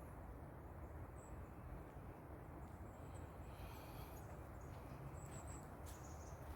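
Faint songbird calls: a few short, high chirps and a brief burst of song about halfway through, from a bird the walker does not recognize. Under them is a steady low rush of forest background noise.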